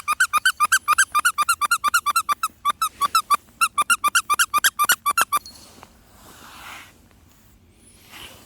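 Rubber squeaky toy squeezed rapidly and repeatedly, about six even, high squeaks a second with a couple of short breaks. The squeaking stops abruptly about five seconds in.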